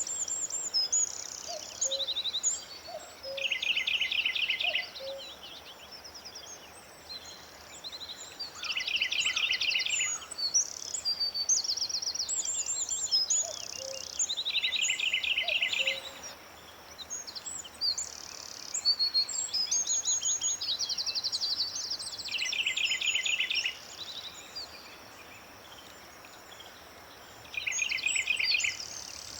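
Several birds singing. One repeats a rapid trill of about a second and a half every few seconds, over frequent higher chirps and short whistles from others.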